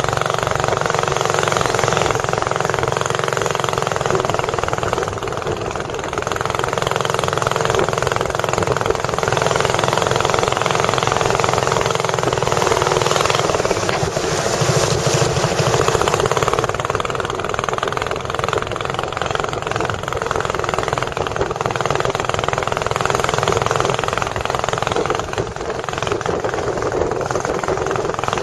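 Boat engine running steadily and loudly, with a fast, even rattle.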